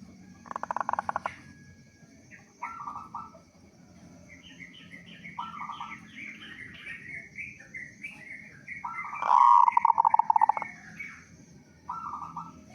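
Zebra dove (perkutut) cooing: repeated bursts of rapid trilled coos, the longest and loudest about nine seconds in. A run of higher, stepwise-falling chirping notes sounds over the middle of the song.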